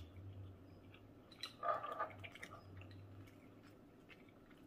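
Faint wet chewing and mouth sounds from a person eating a bite of king crab in alfredo sauce, with small scattered clicks and a slightly louder moment a little under two seconds in.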